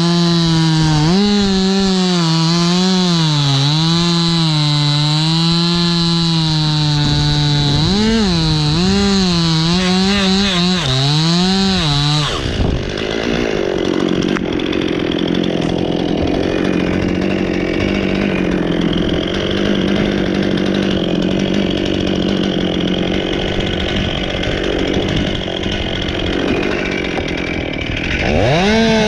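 Chainsaw cutting pine wood, its engine pitch rising and falling as the chain bites and eases. About twelve seconds in the sound turns rougher and noisier with little clear pitch, and near the end the wavering saw tone comes back.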